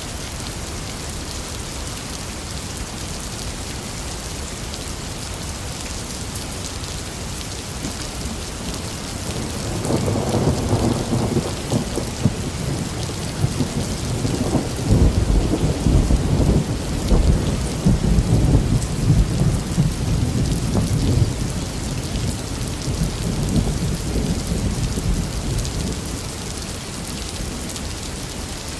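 Steady rain falling, with a long roll of thunder: a deep rumble that builds about a third of the way in, peaks around the middle and dies away before the end.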